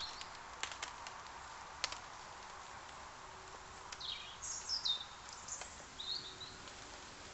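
Woodland birds calling: a few short chirps around four to six seconds in, with a few light clicks before them.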